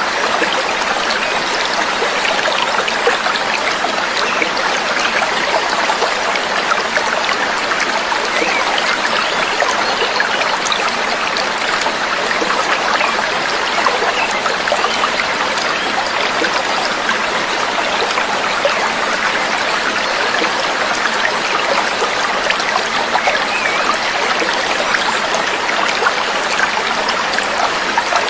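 Steady trickling, babbling water, even and unbroken, with no birdsong over it.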